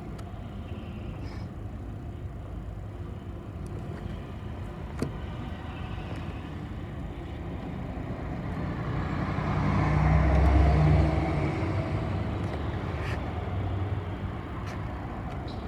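City bus running in traffic: steady engine and road rumble that swells to a louder pull about two-thirds through, then eases off, with a short click about five seconds in.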